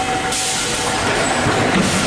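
Steady industrial machinery noise, a hum with a steady whine over a hiss that brightens about a quarter second in, as from the running electric screw press.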